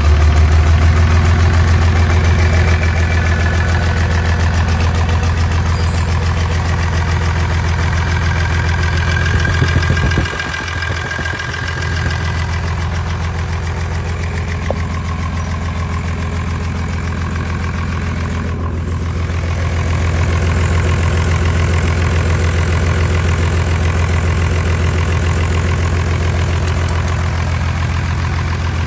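Nissan ND6 six-cylinder diesel engine running at a steady idle. About ten seconds in its sound dips briefly, then settles; it rises a little again about twenty seconds in.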